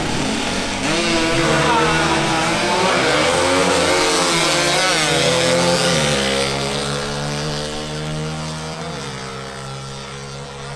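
Small motorcycle engines revving in repeated blips, then settling to a steady idle about six seconds in.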